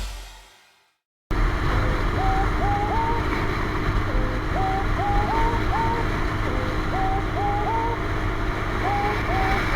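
Steady wind and road noise of a motorcycle ride, with short rising chirps repeated in groups of two or three.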